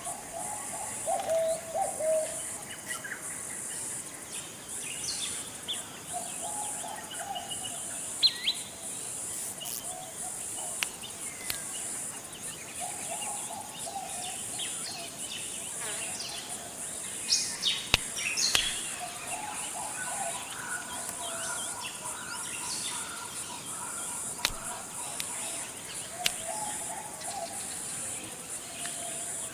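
Tropical forest ambience: a steady high-pitched insect drone under scattered short bird chirps and calls, with lower warbling call phrases recurring every few seconds.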